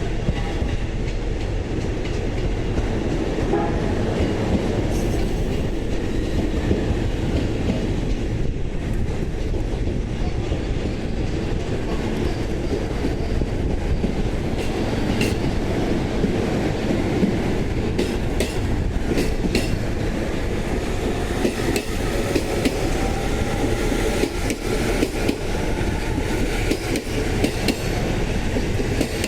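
JR East E531 series electric train pulling out and rolling past, a steady rumble with wheels clacking over rail joints.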